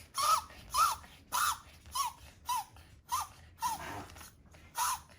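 Chihuahua puppy whining in a string of short high whimpers, about two a second, each rising and then falling in pitch.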